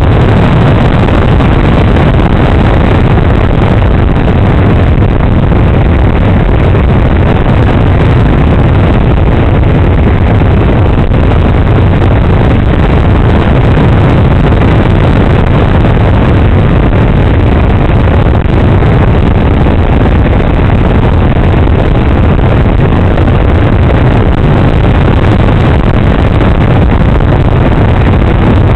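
Kadet radio-controlled model airplane in flight, heard through its onboard camera: the motor runs steadily under loud rushing air noise.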